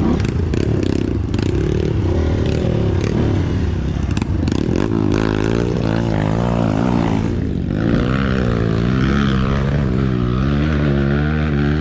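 Trail motorcycle engine revving up and down again and again under throttle, with clattering knocks in the first few seconds.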